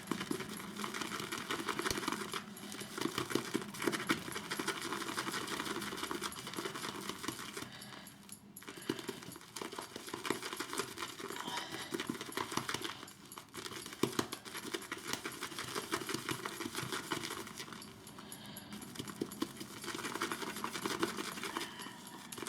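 Synthetic shaving brush whipping shaving soap into lather in a bowl: a fast, steady patter of bristle strokes that stops briefly three times.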